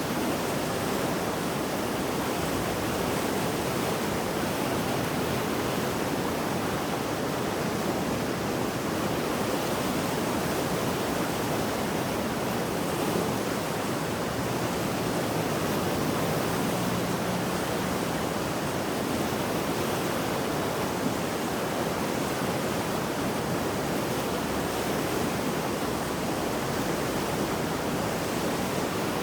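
Mountain river in flood after heavy rain, water rushing steadily over rocks in a constant, dense roar.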